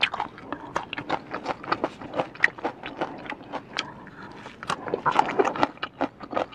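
Close-miked crunching of raw water mimosa (rau nhút) stems being bitten and chewed: a fast, irregular run of crisp crackles.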